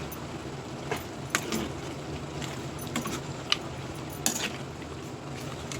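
A spoon scraping and clinking against a kadhai as chicken is stirred with spices, a few scattered clinks over a steady low hum.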